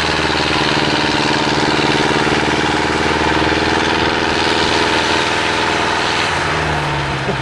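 IFA 4x4 truck's diesel engine running steadily at a fast idle. Its revs drop lower near the end.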